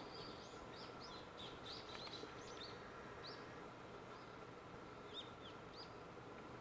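Small birds chirping in short, quick, high calls, a flurry in the first three seconds and a few more near the end, over a faint steady hum.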